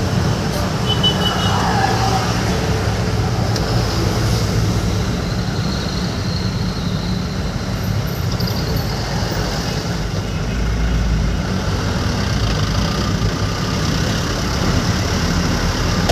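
Steady engine and road noise of a vehicle being driven, a continuous low rumble with a hiss of road noise over it.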